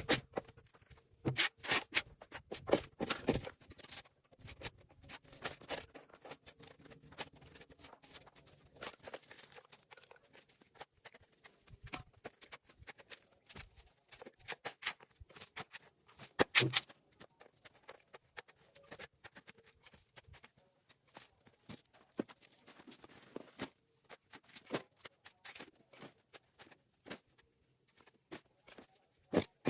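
Irregular clicks, scrapes and rustles of hand clean-up work. They are busiest in the first few seconds, with a sharp knock about sixteen seconds in.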